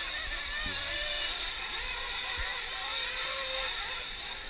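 Several nitro RC truck engines buzzing at a high pitch, each rising and falling in pitch as they rev and ease off around the track. There are a couple of brief low knocks.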